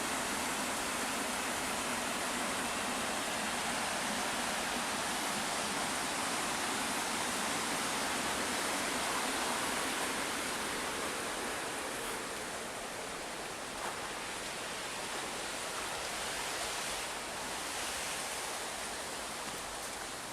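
Water flowing in an irrigation canal: a steady rushing noise that eases slightly about halfway through.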